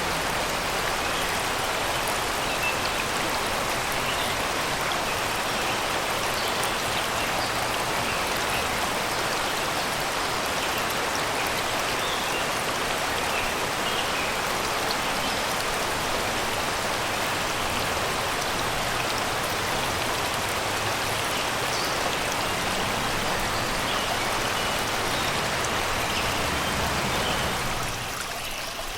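Shallow river water rushing and babbling steadily over rocks and stones, with scattered faint bird chirps above it. The water gets a little quieter just before the end.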